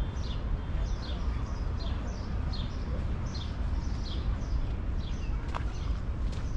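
A songbird repeating short, high chirps that fall in pitch, about two a second, over a steady low rumble. A few sharp clicks come near the end.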